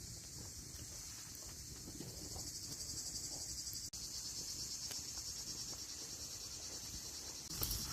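Insects, crickets or cicadas, chirring steadily in a high, fast-pulsing drone over faint low background noise, with a brief dropout about four seconds in.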